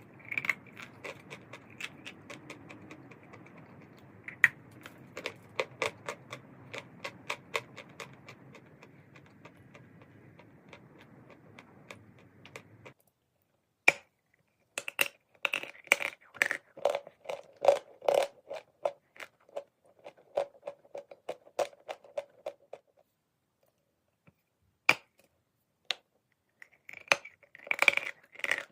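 Pieces of chalk being bitten and chewed: a run of crisp, irregular crunches and cracks, thinning out to a few single snaps about two-thirds in, then a dense cluster again near the end.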